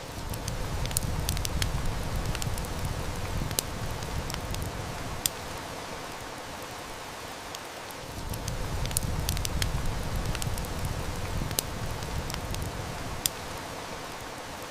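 Steady heavy rain mixed with a wood fire crackling, its sharp snaps scattered irregularly. A low rumble swells up twice, each time for about six seconds.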